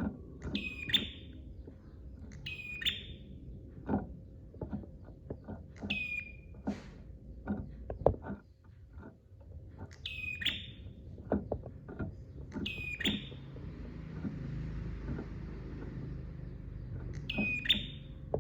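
A prenjak songbird calling: six short, shrill phrases a few seconds apart, each one dropping in pitch. Irregular soft clicks and a faint steady hum run underneath.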